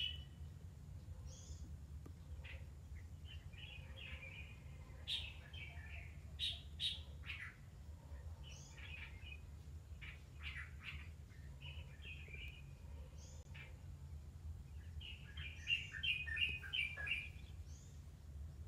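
Birds chirping in short calls, with a quick run of rapid chirps about three-quarters of the way through, over a steady low hum.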